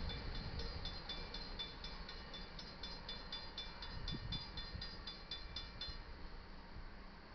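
Canadian Pacific freight train rolling past and fading, with a low rumble and a rapid high, ringing ticking at about four a second that stops about six seconds in.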